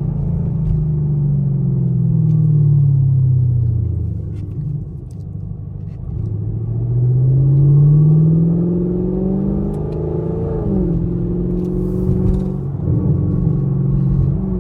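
Straight-piped 2017 Camaro SS 6.2-litre V8 exhaust while driving: the engine note falls as the car slows for the first few seconds, then climbs steadily as it accelerates again. About ten seconds in the pitch dips briefly, then holds steady.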